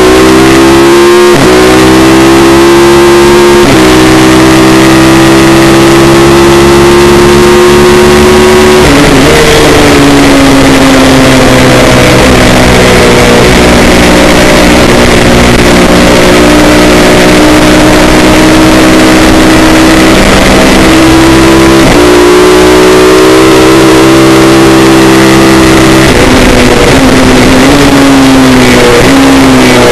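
Suzuki SV650's V-twin engine racing at high revs, recorded from an onboard camera on the bike. The note holds steady through long corners and climbs slowly, with a few sharp jumps in pitch at gear changes. The sound is loud and distorted over a constant hiss.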